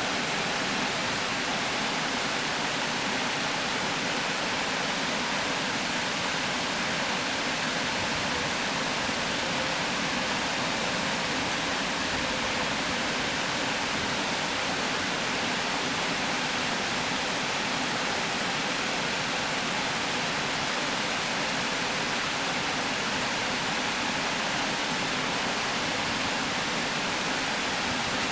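Water pouring steadily over a river weir: a constant, even rush of falling water.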